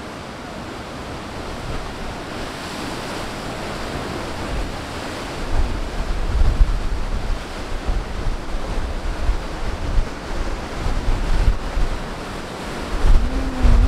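Strong wind buffeting the microphone over the wash of ocean surf, the gusts growing louder about five seconds in.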